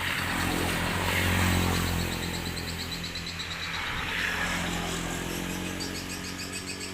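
Motorcycle engine running, getting louder about a second in and then holding steady.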